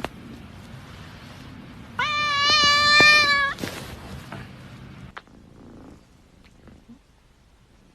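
A cat gives one long, loud meow of about a second and a half, starting about two seconds in.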